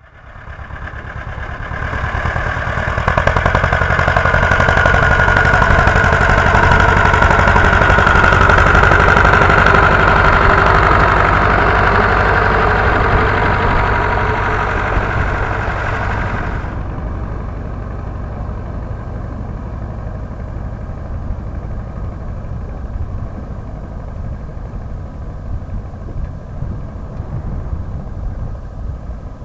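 Władimirec T-25 tractor's two-cylinder air-cooled diesel engine running steadily. It is loud at first, then about two-thirds of the way through the sound turns abruptly duller and quieter.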